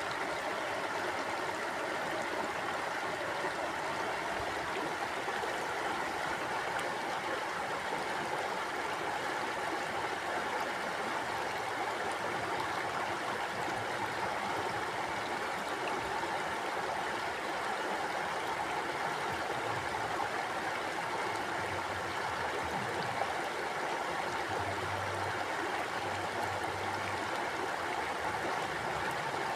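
A stream running steadily over rocks, a continuous even rush of water with some gurgling.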